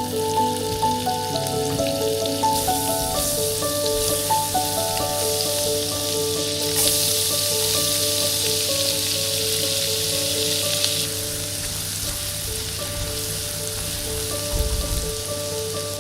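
Food frying in hot oil in a pan, a steady sizzle that grows louder about seven seconds in and eases off a few seconds later. Light background music with a simple melody plays over it.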